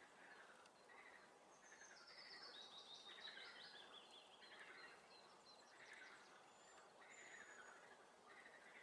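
Faint swamp frog chorus, croaks repeating about once a second, with a songbird singing a descending phrase in the first half and a couple of short high whistles later on.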